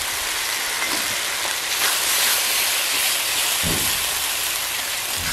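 Water-soaked ground spice paste sizzling as it goes into hot oil with fried onions and ginger-garlic paste in a pan. The sizzle is steady and swells slightly about two seconds in.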